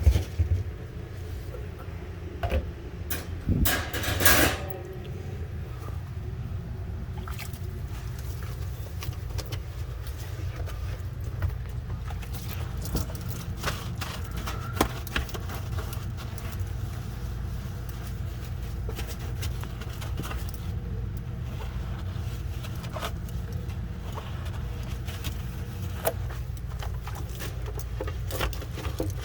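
Clicks, knocks and rattles of hands working plastic refrigerator shelves and fittings loose, with a louder rattling scrape about four seconds in, over a steady low hum.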